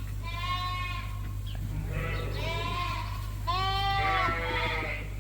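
Dorset sheep in a barn pen bleating, three separate calls, the last one loudest, over a steady low hum.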